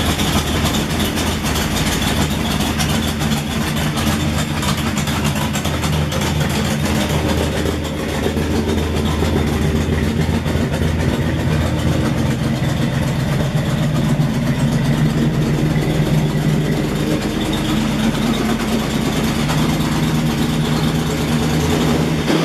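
Supercharged LT1 V8 of a 1996 Buick Roadmaster idling steadily through its exhaust. It has a leaky EGR.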